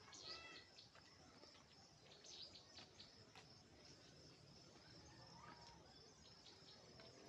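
Near silence with faint countryside ambience: a steady high insect trill and a few scattered bird chirps.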